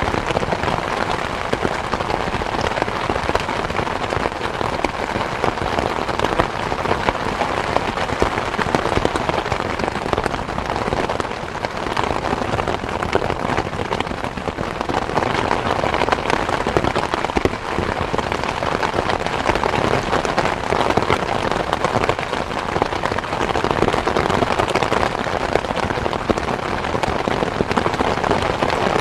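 Steady rain falling, a dense even hiss with many small drop impacts.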